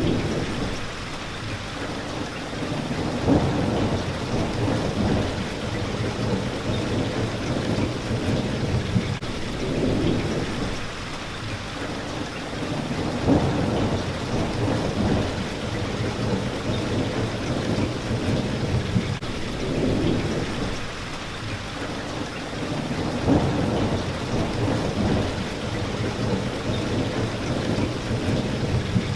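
Steady rain hitting a window, with low thunder rumbles swelling up every few seconds.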